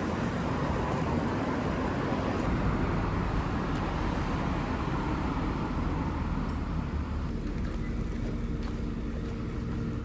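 Steady rushing hiss of rain and car tyres on a wet road.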